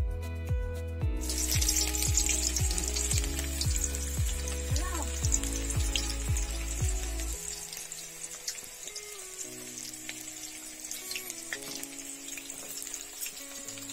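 Chopped onion and dried red chilli frying in hot oil in an aluminium kadhai: a sizzle that starts suddenly about a second in, as they go into the oil, and carries on steadily. Background music plays under it, its heavy beat dropping out about halfway.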